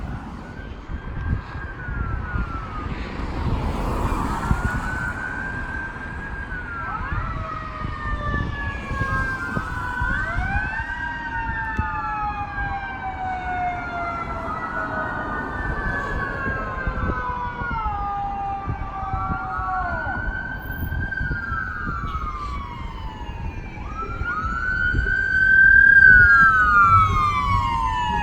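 Several emergency-vehicle sirens wailing at once, their rising and falling sweeps overlapping over a low road rumble. They grow louder near the end as the vehicles approach.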